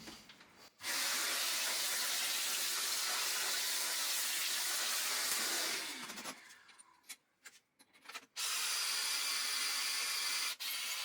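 Shop vacuum sucking metal chips and swarf from freshly drilled holes, running in two spells: a long one of about five seconds and a shorter one that cuts off suddenly near the end.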